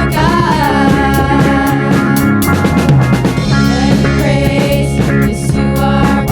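A band playing rock-style worship music with drum kit and guitar, a melody line wavering near the start.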